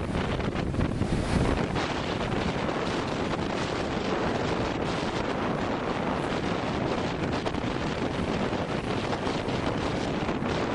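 Strong wind buffeting the microphone over the noise of a rough sea's waves breaking on the shore, with a stronger gust about a second in.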